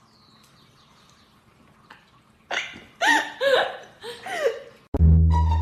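A pet animal giving a few short cries that bend up and down in pitch, after a quiet start. Near the end, music with plucked strings starts loudly.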